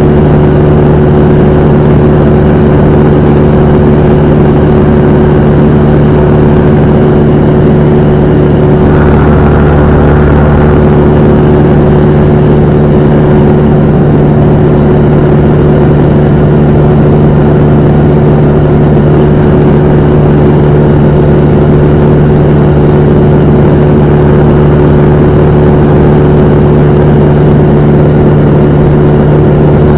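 Cessna 172M's four-cylinder Lycoming O-320 engine and propeller running with a steady, loud drone, shifting slightly in tone about nine seconds in.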